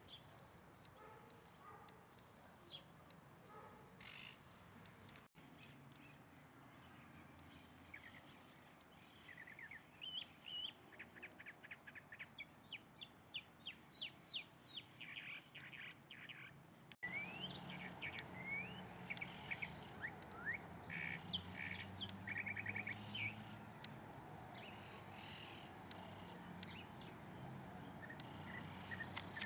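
Small birds chirping and calling: scattered short notes, then a fast run of repeated chirps, then rising and falling calls. The sound cuts off abruptly twice.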